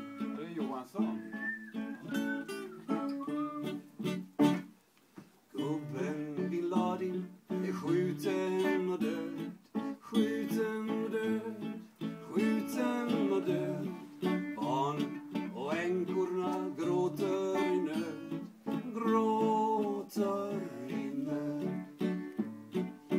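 Acoustic guitar playing a song's instrumental intro, strummed and picked, with a gliding melody line above it. It drops out briefly about five seconds in.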